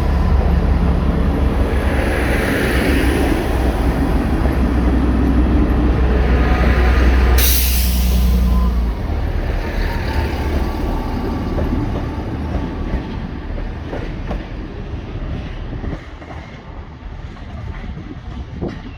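Diesel multiple-unit train running through the station with a loud, deep engine and wheel rumble that eases after about nine seconds and fades away. A short burst of hiss comes at about seven seconds in.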